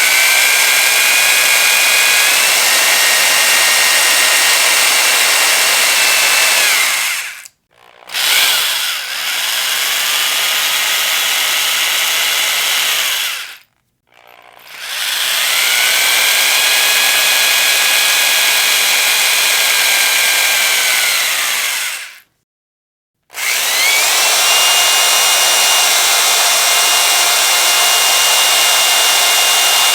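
Electric power drill run in four long bursts, stopping three times with short silent gaps. Each burst has a high motor whine that climbs as the drill spins up and sags as it winds down, over a harsh rushing noise.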